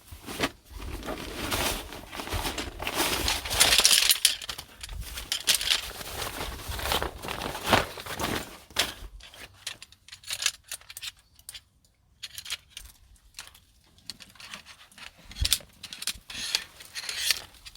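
Irregular rustling, crinkling and clinking of things being handled, busy for about the first nine seconds and then sparser, with scattered small clicks.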